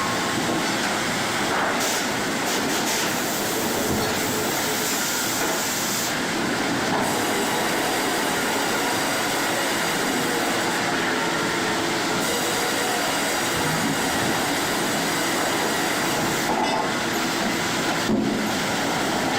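Sawmill machinery running: a steady, harsh mechanical din with metallic rolling and squealing, broken by a few brief clicks.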